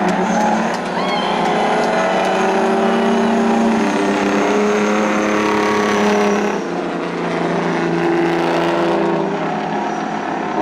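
Several racing semi trucks' diesel engines running hard together, their engine notes at different pitches stepping and shifting as the trucks race by.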